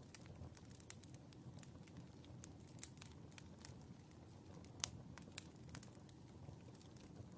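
Fire burning in a fireplace, crackling faintly with scattered irregular pops over a low steady rumble; the sharpest pop comes a little past halfway.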